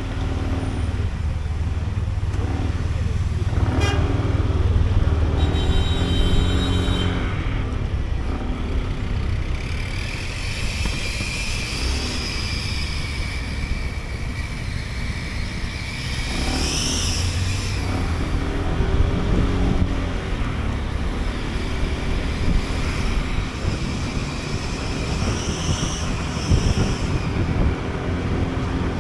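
Sym Jet X 125 scooter running through city traffic, its engine under a steady rumble of road noise, with other vehicles around and a horn sounding partway through.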